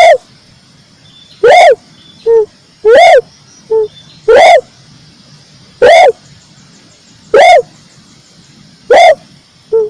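Tekukur merah (red turtle dove) calling: loud, short, arching coos repeated evenly about every one and a half seconds, seven in all, with a shorter, softer note slipped in after a few of them.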